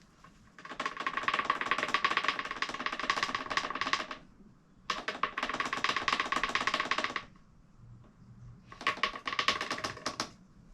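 A ratchet clicking rapidly in three runs, the first about three and a half seconds long, then two shorter ones, as a fastener is screwed back in on the motorcycle.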